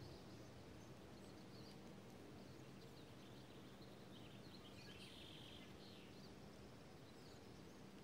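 Near silence, with faint high bird chirps and twitters scattered through it, a small cluster about halfway through, over a faint steady background hum.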